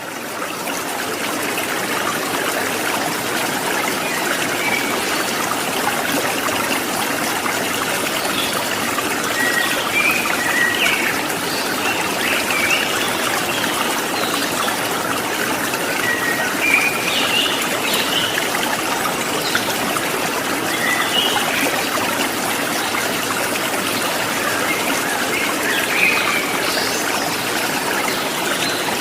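Water trickling and splashing steadily, fading in at the start, with short, faint bird chirps now and then over it.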